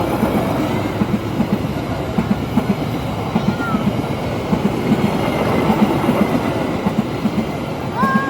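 A train passing close by, its wheels clacking over the rail joints in a quick, uneven rhythm of paired knocks over a steady rumble. A short high squeal comes near the end.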